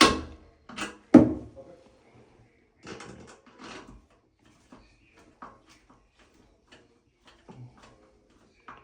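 Sharp knocks and clatter of hand tools and toilet hardware being handled, three loud ones in the first second or so, then lighter scrapes and taps.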